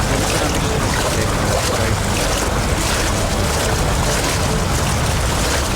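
Steady rushing outdoor noise from the regatta course broadcast, like wind blowing across the microphone.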